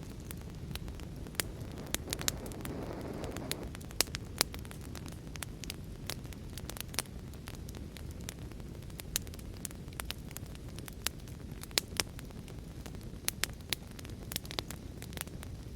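Wood fire in a fireplace crackling, with sharp irregular pops over a steady low rumble; the rumble swells briefly about three seconds in.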